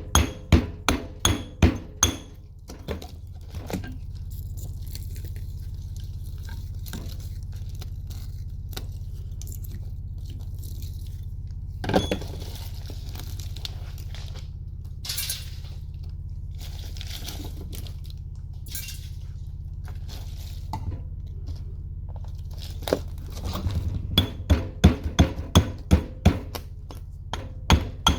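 Hammer blows on metal while a microwave oven is being broken down for its copper, in quick runs of about three strikes a second at the start and again near the end. In between, scattered clinks of metal parts being handled over a steady low hum.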